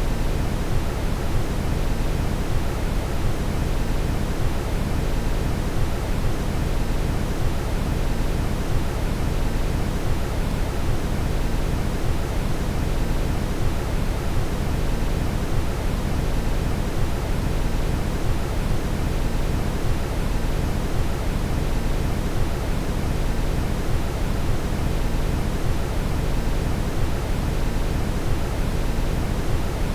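Steady brown noise: a constant, unchanging hiss weighted heavily toward the low end.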